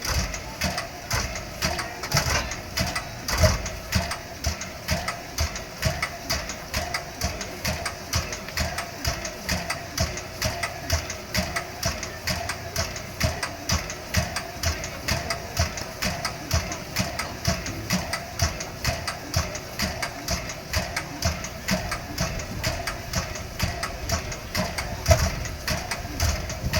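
Standing C62 steam locomotive with a steam-driven pump working: a fast, even pumping beat at about three strokes a second over a steady whine.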